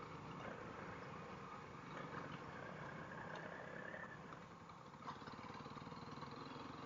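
Faint, steady running of a Honda CRF dual-sport motorcycle's single-cylinder engine at low speed.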